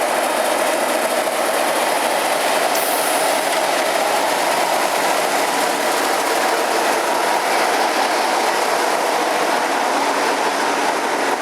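Train hauled by an LSWR T9 class steam locomotive rolling into the station: a steady, loud rumble of wheels on rail. A brief high-pitched hiss comes about three seconds in.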